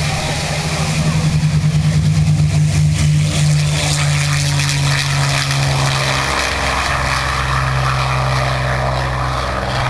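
Aircraft engine running with a steady low drone. It beats and pulses for the first few seconds, then its pitch shifts slightly about six seconds in.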